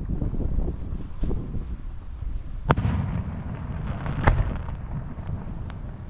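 Fireworks bursting overhead: a low, continuous rumble of shells with sharp bangs, the two loudest about a third and two thirds of the way through, among smaller pops.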